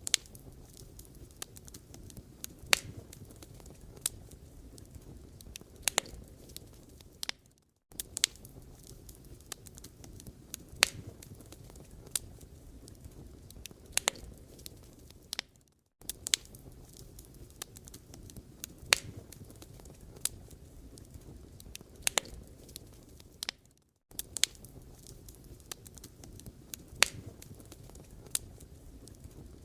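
Wood fire crackling: irregular sharp pops and snaps over a steady low hiss of burning logs. The sound drops out briefly about every eight seconds and the same pops come back each time, as if a short recording is looped.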